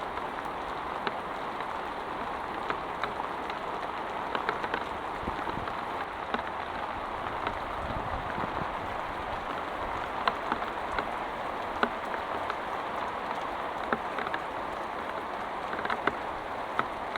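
Heavy rain falling steadily, with frequent sharp drips striking close by.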